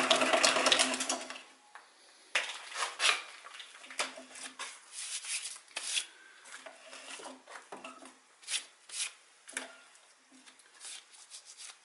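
Seneca Falls Star 10 lathe running, then stopping about a second in; after that, scattered light metal clinks and short scrapes of parts and tools being handled at the lathe.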